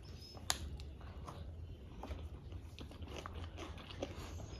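A person chewing and eating: soft scattered clicks and mouth sounds, with one sharper click about half a second in, over a low steady hum.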